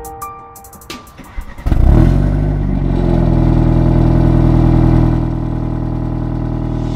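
BMW 320i's turbocharged four-cylinder engine, fitted with a full Armytrix exhaust, starting up about two seconds in with a loud flare, then settling into a steady idle that drops a little lower near the end. Brief music comes before the start.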